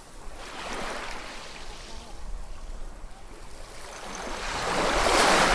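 Ocean waves washing in: a small wash about half a second in, a lull, then a bigger wave surging in and building to its loudest near the end.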